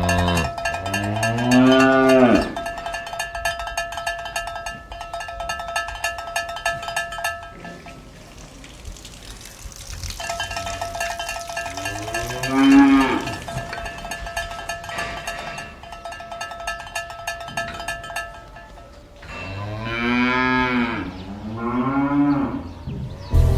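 Cows mooing four times, each a long call that rises and falls in pitch, over the steady clinking ring of cowbells that pauses now and then.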